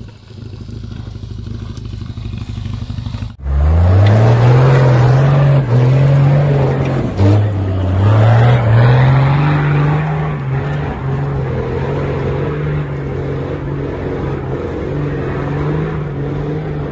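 Off-road 4x4 engine running at low revs, then, after a sudden break about three seconds in, much louder as it revs up and holds high revs, dipping once and climbing back before running steadily.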